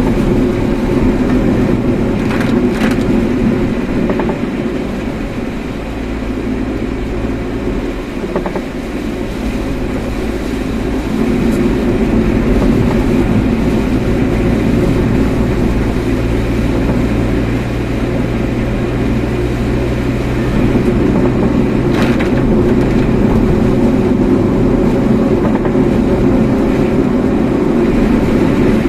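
Car driving along: steady engine and road noise with a low hum, dipping slightly for a few seconds, with two short clicks, one near the start and one near the end.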